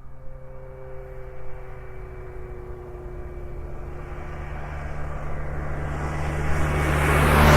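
Motorbike engine running at a steady pitch as it approaches, growing steadily louder and passing close by at the end.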